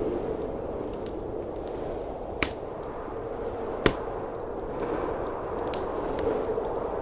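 Wood fire crackling with scattered small snaps and two louder pops about a second and a half apart near the middle, over a steady low roar of blizzard wind.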